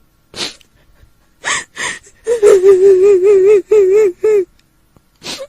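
A woman's voice wailing on a long, quavering high note, with sharp gasping breaths before and after it, staged as the weeping of a kuntilanak ghost.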